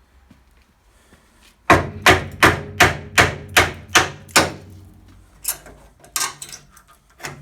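Hammer blows on steel: a quick run of eight sharp, ringing strikes, about two and a half a second, then a few slower blows after a short pause.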